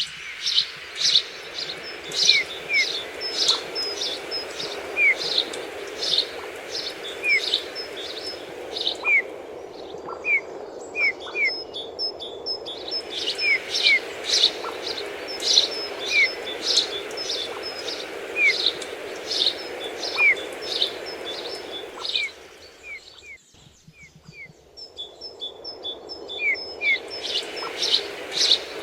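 Small songbirds calling constantly, dense high chirps mixed with short, soft curved whistles; the whistles fit bullfinch calls. A steady background noise runs underneath and briefly drops away about three quarters of the way through.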